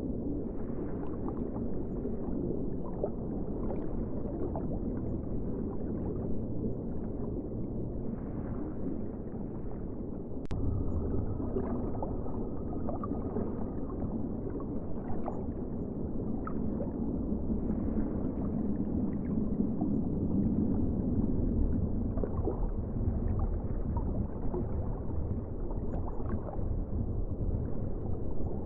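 Ocean water: a steady, low, muffled wash with gurgling and small pops, swelling a little about ten seconds in.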